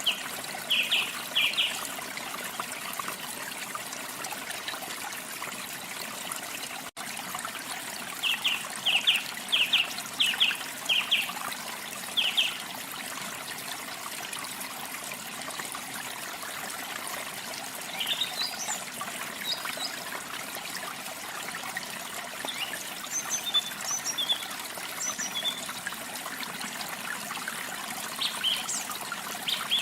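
Waterfall water running and trickling steadily, with birds singing over it. A bird gives a quick series of short, clipped notes near the start and again about a third of the way in, and higher, scattered chirps follow in the second half.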